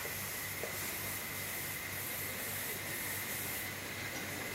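Steady hiss with a faint low hum beneath it, unchanging throughout.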